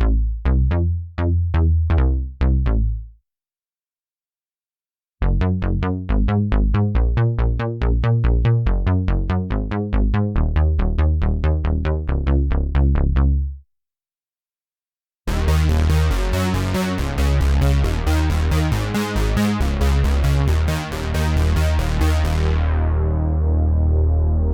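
Cherry Audio P10 software synthesizer, an emulation of the Roland Juno-10 analog polysynth, playing bass presets: three short phrases of rapidly repeated bass notes, with two gaps of silence between them. In the last phrase the filter closes near the end, dulling the tone.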